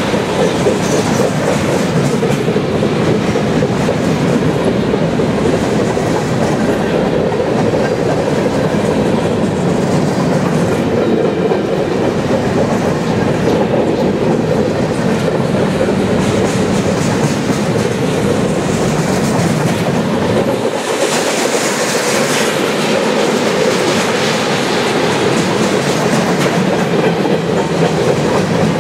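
Empty centerbeam flatcars of a freight train rolling steadily past, steel wheels clattering and rumbling on the rails.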